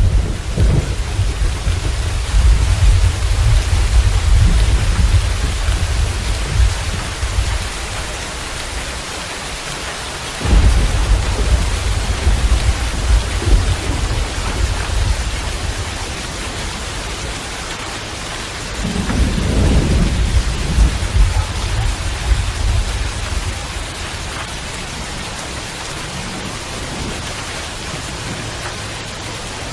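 Steady heavy rain with low rolling thunder: a long rumble at the start, another starting abruptly about ten seconds in, and a softer one around twenty seconds.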